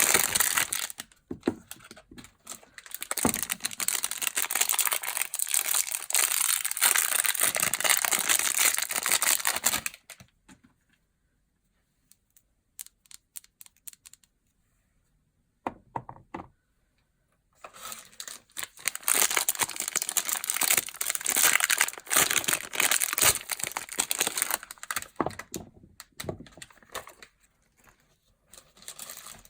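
Soap packaging being crinkled and torn open by hand, in two long stretches of dense crackling with a quiet pause in the middle broken by a few small clicks.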